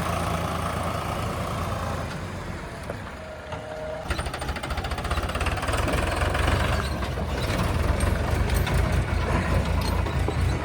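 Heavy diesel machinery engine running, easing off about two seconds in, then working harder and louder from about four seconds in with a fast, even knocking beat.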